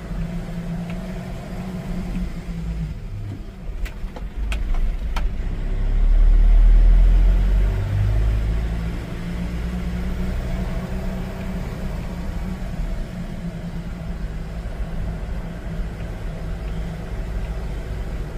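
Vehicle driving, its engine running steadily with low road rumble that swells louder for a couple of seconds midway. A few short clicks sound about four to five seconds in.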